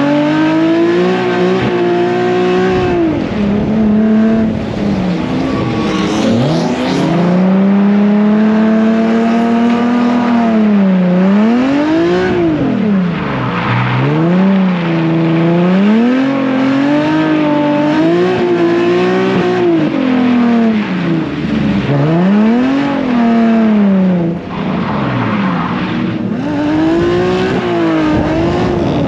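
Drift car's engine revving hard through a drift run, its pitch climbing and dropping again every second or two as the driver works the throttle, with patches of tyre noise on a wet track.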